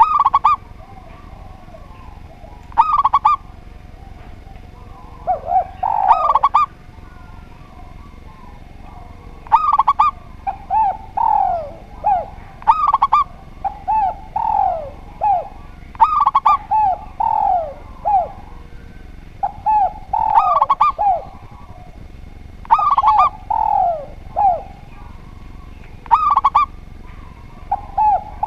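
A spotted dove and a zebra dove cooing together. Short pitched coos recur about every three seconds, with runs of two or three falling coos in between.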